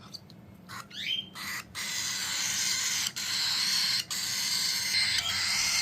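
Baby cockatiel begging while being hand-fed: a short rising chirp about a second in, then a continuous raspy, hissing begging call that breaks off briefly twice.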